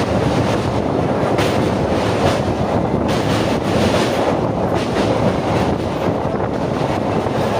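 Passenger train running along the track: a loud, steady rumble of the coach and wheels, with wind on the microphone.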